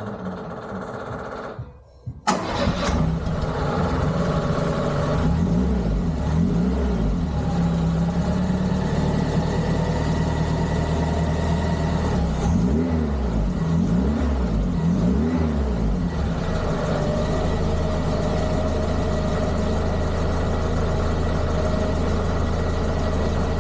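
Renault 8's engine starting about two seconds in, then running: the engine speed rises and falls in a few slow waves twice before settling into a steady idle.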